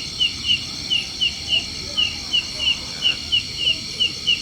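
Outdoor insect chorus: a steady high buzzing, with a short sharp chirp repeated about three times a second on top.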